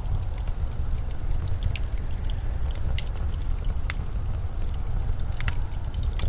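Snowstorm wind as a steady low rumble, with scattered small sharp clicks and crackles over it.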